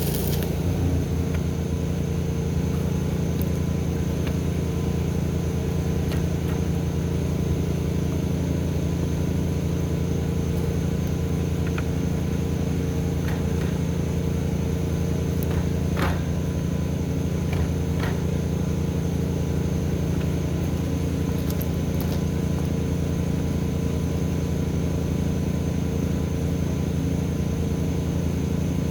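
A steady, unchanging low machine hum made of several even tones, with a few faint clicks in the middle.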